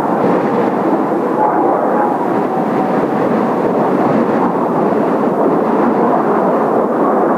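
Kawasaki T-4 jet trainers' turbofan engines: a steady, loud jet roar as the formation flies overhead.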